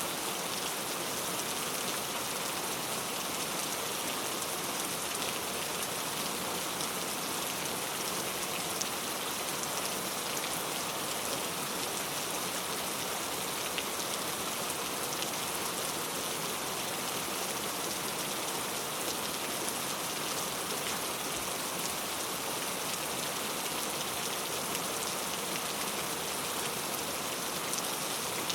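Heavy rain falling steadily on mango tree leaves, a dense even hiss with fine scattered drop ticks.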